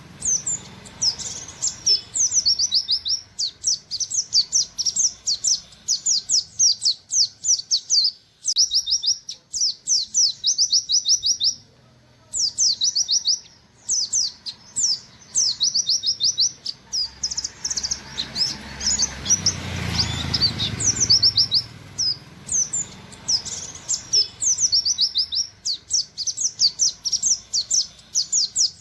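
A pleci (buxtoni white-eye) singing its rapid 'nembak' song: long, fast trains of short, high, down-slurred notes, broken by brief pauses.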